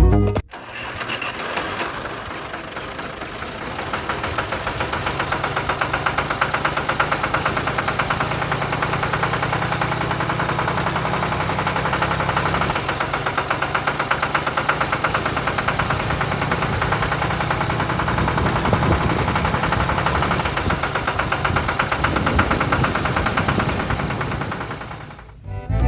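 A small engine running steadily with a rapid, even beat, fading out near the end.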